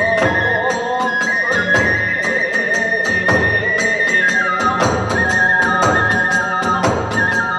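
Hiroshima kagura accompaniment: a bamboo flute plays a high, stepping melody over quick, even beats of drum and small hand cymbals.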